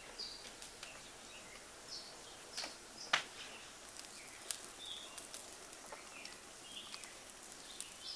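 Birds chirping in short calls over a soft outdoor hiss, with a few sharp clicks scattered through, the loudest about three seconds in.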